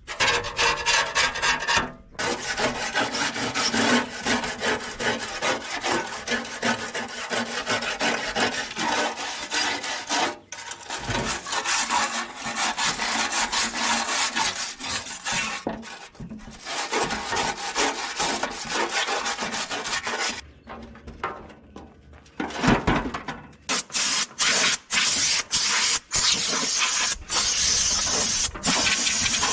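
Scraping and scrubbing strokes on a metal part as it is cleaned of old grime: dense scratchy runs broken by short pauses, brighter and hissier near the end.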